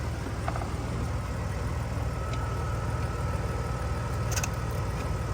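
A car engine sound running steadily: an even low rumble, with a thin whine joining about two seconds in and a few light clicks.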